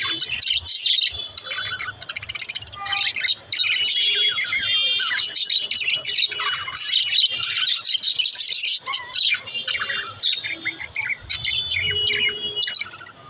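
Several pet budgerigars chirping and chattering, a dense run of quick warbling chirps with a few short whistles mixed in.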